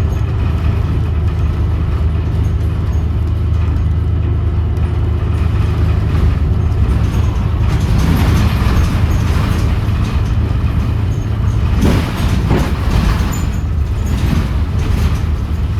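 Inside a 2017 New Flyer XDE40 diesel-electric hybrid bus under way: a steady low drone with road and rattle noise, and a few knocks about twelve seconds in. It is the unusual drive sound that the rider suspects comes from a weird transmission or a loose screw or panel.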